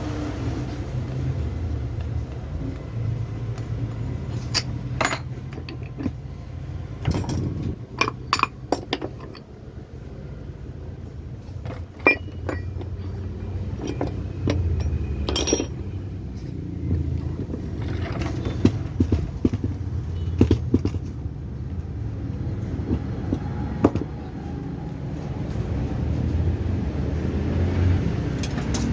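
Scattered metallic clinks and taps of hand tools and loose metal parts as a starter motor is taken apart, over a steady low hum.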